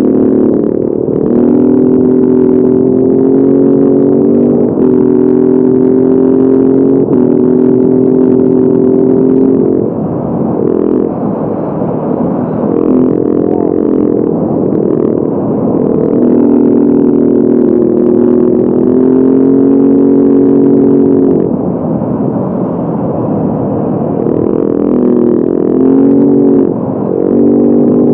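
Motorcycle engine running under way at fairly steady revs, its pitch dipping and changing several times, as with throttle changes or gear shifts.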